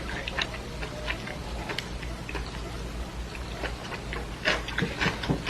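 Light, scattered clicks and taps of eating utensils against dishes during a meal, over a steady low hum.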